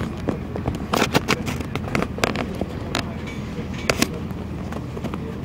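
Inside a diesel passenger train: a steady low rumble with a scatter of sharp clicks and knocks, most of them in the middle of the stretch.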